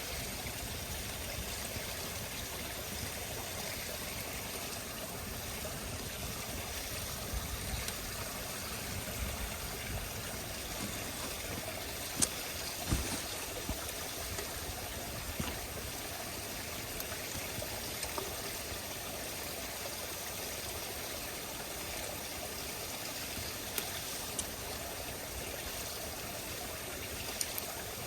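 Campfire burning: a steady hiss with occasional sharp crackles and pops, two of the loudest close together about halfway through and a few more near the end.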